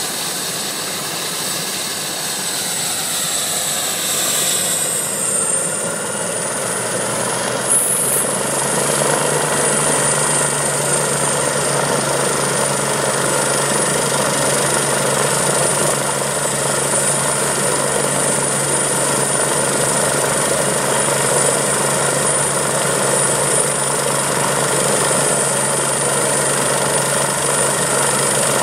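Medical helicopter's turbine engines whining up, the high whine rising in pitch over the first several seconds and then holding steady, with the rotor's steady beat coming in and the sound growing slightly louder: the helicopter spooling up to flight speed for departure.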